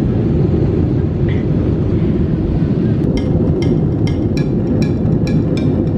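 Steady airliner cabin noise in flight, an even low roar. About halfway through, a regular ticking music beat comes in over it, about two and a half ticks a second.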